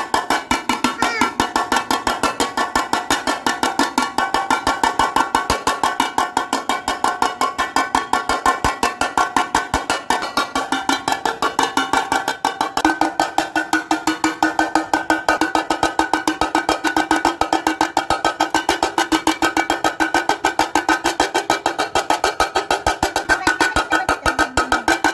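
Metal tray struck rapidly and evenly with a spoon, several strikes a second, its ringing tones hanging on between strikes; about halfway through a lower ringing tone joins in.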